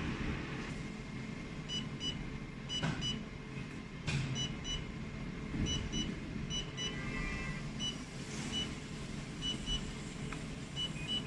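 Jewelry laser welding machine running with a steady hum, sounding short high electronic beeps, mostly in pairs, every second or so.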